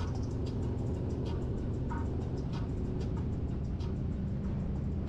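Harley-Davidson Road Glide's V-twin engine running at a steady speed, with faint regular ticks about every two-thirds of a second.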